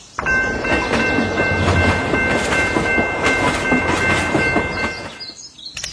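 A train passing: rumbling wheel clatter with a steady three-note horn chord held over it. Both stop abruptly about five seconds in.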